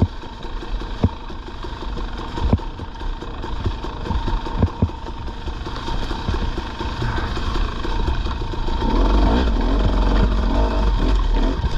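Dirt bike engine running at low revs with scattered sharp knocks, its note growing louder and wavering up and down in the last few seconds as it is revved.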